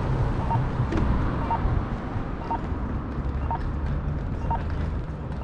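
Steady traffic and wind rumble heard while cycling along a city street, with a short electronic beep repeating about once a second and a single sharp click about a second in.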